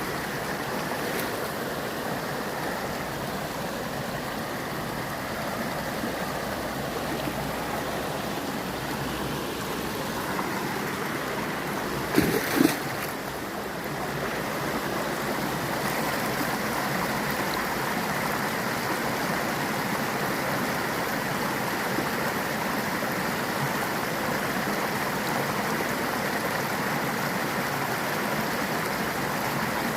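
Mountain stream rushing steadily over rocks, with two brief knocks about twelve seconds in.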